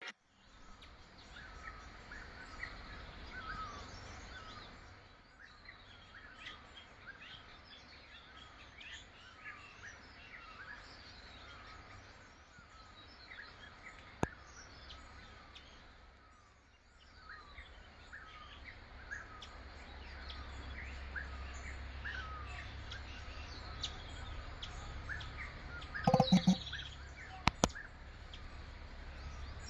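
Wild birds chirping and calling, many short falling chirps repeating over a steady low rumble. Near the end there are a few sharp, loud knocks.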